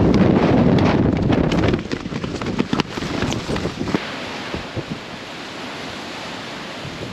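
Storm wind buffeting the microphone. It is loud and gusty for about the first two seconds, then eases to a softer steady rush, with scattered sharp ticks in between.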